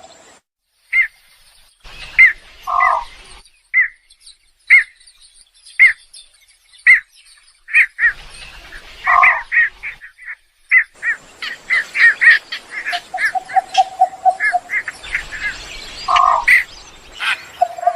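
Birds calling: short, sharp chirps repeating about once a second, coming faster after about ten seconds, with a few harsher squawks mixed in. A fast rattling trill comes in near the end.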